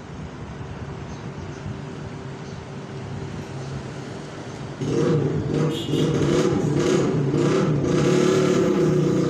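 Small DC motor of a homemade mini tractor whirring through its gears, a low steady hum that turns suddenly louder and busier about five seconds in.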